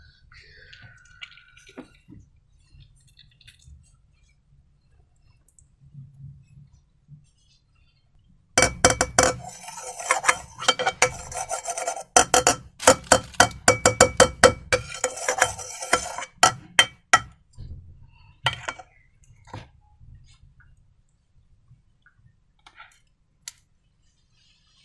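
A utensil clinking and scraping rapidly against a hard bowl, as in stirring a slime mixture, for about eight seconds starting nine seconds in, with a few faint ticks after.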